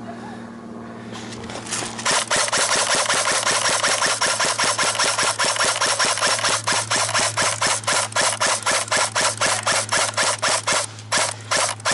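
Electric AK-style airsoft gun firing on full auto: a long, rapid mechanical rattle of the gearbox cycling and BBs leaving the barrel, starting about two seconds in and running on with a few short breaks near the end.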